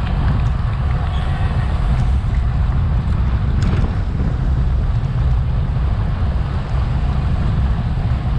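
Wind buffeting an action camera's microphone on a bicycle at racing speed: a loud, steady low rumble.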